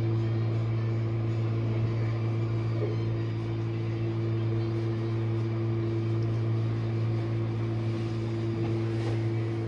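Jenn-Air dishwasher running mid-cycle with a full load: a steady low motor hum with a faint wash of noise over it.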